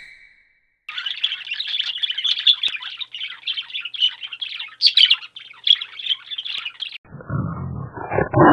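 Birds chirping in a dense, rapid run of short high chirps. About seven seconds in this cuts off suddenly and a lower, rough animal call begins.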